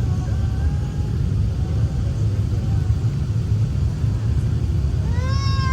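Steady low rumble inside an Airbus A380 cabin on the ground. About five seconds in, a high, wailing cry rises over it and is held.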